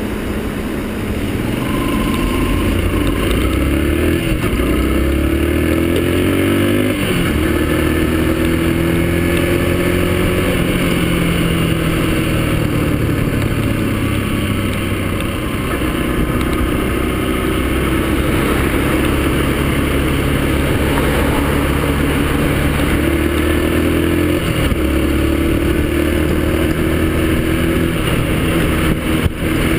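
Yamaha XTZ125's single-cylinder four-stroke engine running under way. It rises in pitch and shifts up a gear about a quarter of the way through, runs steadily, then climbs and shifts up again about four-fifths of the way through.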